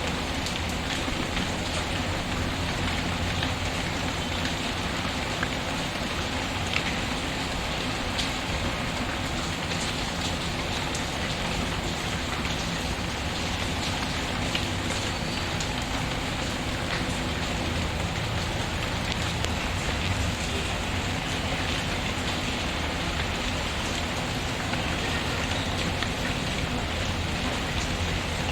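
Steady rain pattering, with a few sharp crackles from a wood fire scattered through it.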